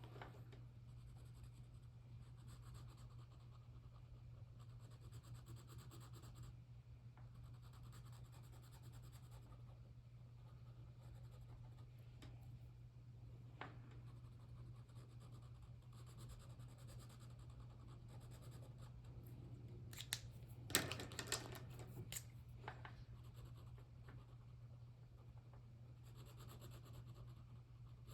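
Faint scratching and rubbing on paper in short spells, with a cluster of louder rustles and clicks about twenty seconds in, over a low steady hum.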